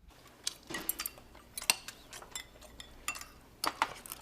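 Scattered light clinks and taps of cutlery against dishes, about a dozen short strokes spread irregularly, some with a brief ring.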